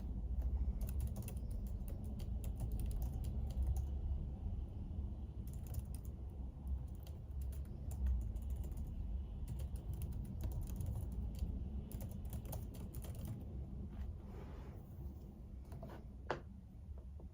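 Typing on a computer keyboard: quick runs of keystroke clicks that thin out to a few scattered taps after about 13 seconds, with one brief sharp sound near the end. A steady low hum sits underneath.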